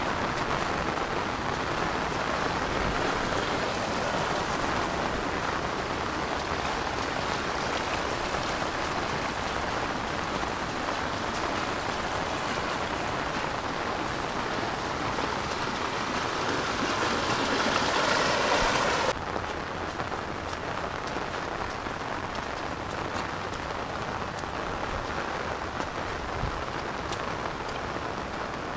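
Heavy rain falling on rice paddies and leafy vegetation: a dense, steady hiss. It grows louder for a few seconds past the middle, then drops suddenly to a softer, duller hiss about two-thirds of the way in.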